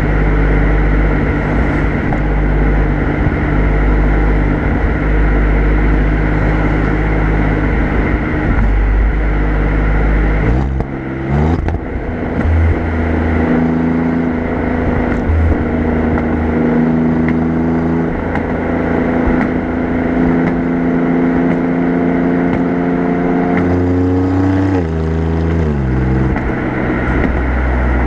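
Alfa Romeo Giulia Quadrifoglio's twin-turbo V6 exhaust, heard close up from the rear bumper while driving: a steady low drone, the revs climbing quickly about ten seconds in and holding higher, then dropping back near the end.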